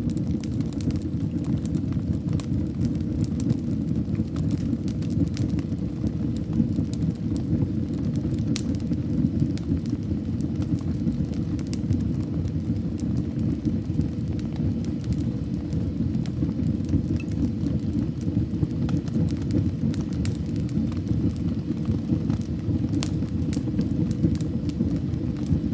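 Wood fire burning in a fireplace: a steady low rush of flames with frequent small crackles and pops scattered throughout.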